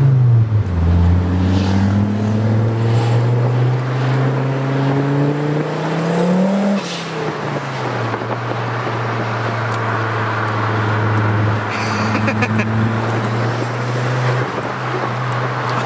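Big-turbo Volvo 850R's turbocharged five-cylinder engine, heard from inside the car, accelerating with its note climbing for about six seconds. The note then drops sharply with a gear change and settles to a steady cruise.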